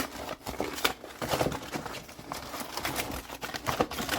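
Frozen ready-meal packaging being opened and handled: the cardboard sleeve and plastic tray give irregular crackles, taps and scrapes.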